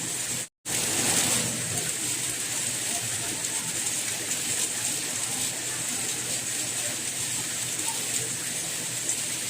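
Steady rainfall, an even rushing hiss. It cuts out to silence for a moment about half a second in, then resumes a little louder.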